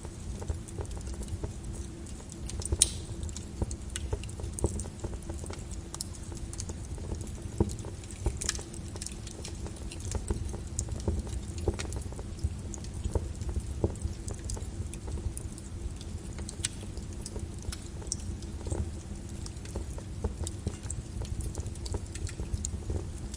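Flowing lava: a steady low rumble with irregular crackles and pops, the sound of the cooling crust cracking and breaking.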